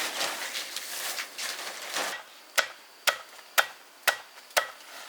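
Rustling noise, then five sharp knocks at a steady pace of about two a second, each with a brief ring.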